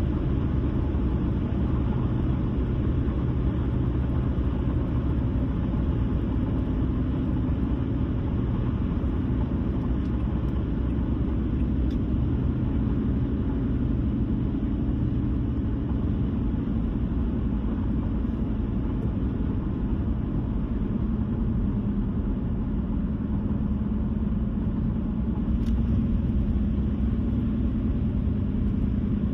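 A car driving along the road with a steady rumble of tyres and engine. A low hum in the rumble drifts slowly in pitch.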